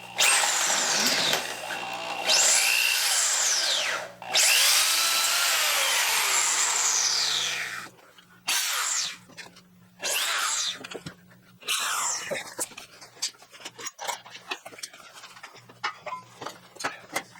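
Power drill enlarging pre-drilled holes in 1/8-inch steel to final size. It runs in several bursts, its pitch rising and falling as the trigger is worked, with the longest run about 4 to 8 seconds in. It is followed by lighter clicks and knocks in the last few seconds.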